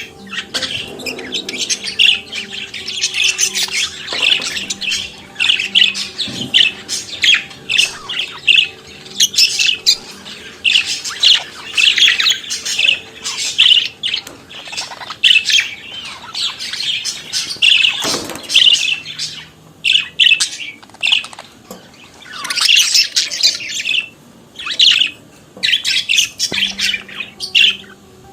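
Budgerigars chattering and warbling: a steady stream of short chirps, squawks and trills.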